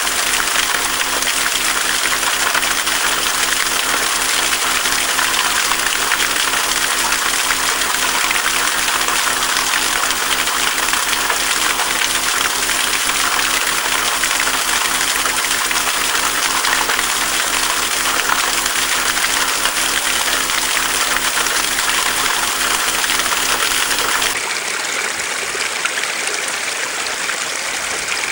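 Stream water rushing steadily down a rocky cleft. About three-quarters of the way through the sound changes abruptly to a somewhat quieter, thinner flow.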